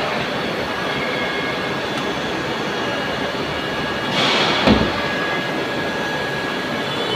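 Steady noise of running machine-shop machinery with faint steady whining tones, and a short loud hiss with a low thump about four seconds in.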